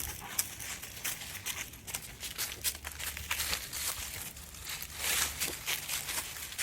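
Footsteps crunching and rustling on the ground during a walk, several irregular steps a second, with a denser patch of crunching about five seconds in.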